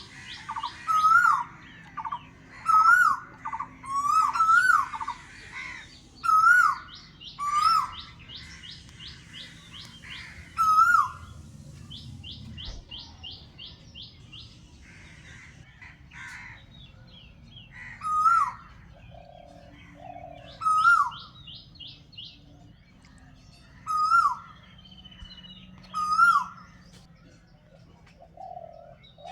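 Birdsong with several birds calling. One louder bird repeats a short call about once a second at first, then every few seconds, over higher chirps and quick trills.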